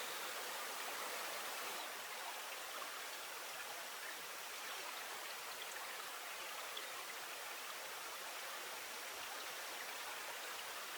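Steady rush of flowing river water, a little quieter from about two seconds in.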